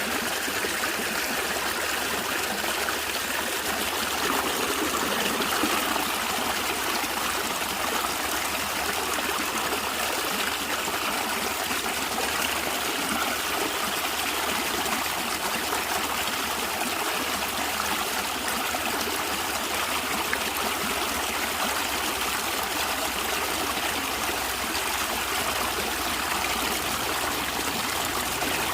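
A small stream flowing and gurgling steadily over stones, a continuous trickling rush of water.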